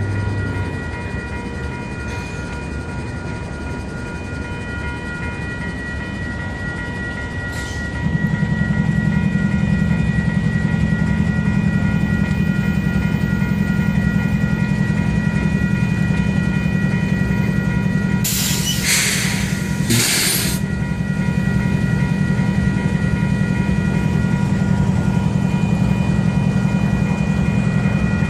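Stopped diesel freight train at a level crossing. About eight seconds in, its engine comes up to a loud, steady low drone and holds there, and two short loud hissing blasts come near the end. Steady high ringing tones from the crossing's warning signal run underneath.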